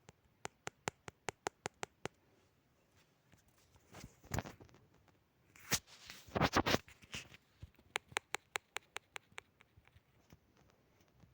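A quick run of sharp clicks, about five a second, broken in the middle by a few louder scraping, rustling noises; the clicks then return and fade away.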